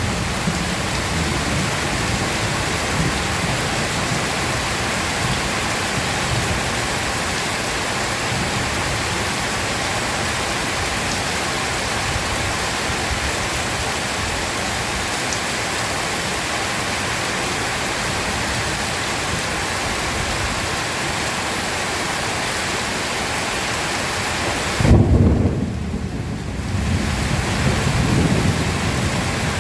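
Heavy rain pouring steadily in a thunderstorm. A low rumble of thunder fades out at the start, and about 25 seconds in a loud, deep thunder rumble breaks in and rolls on for a couple of seconds.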